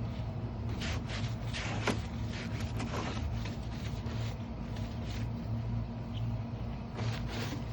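A brush scrubbing the soapy outside of a plastic recycling bin in short, irregular strokes, over a steady low hum.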